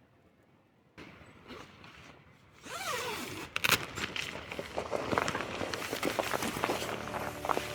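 Handling noise: rustling and rasping with several sharp clicks and knocks, starting suddenly about a second in and getting louder about three seconds in.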